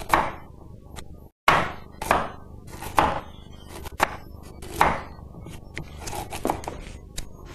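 Kitchen knife chopping carrots on a wooden chopping board: sharp, separate chops about once a second, each with a short ringing tail, the later ones fainter.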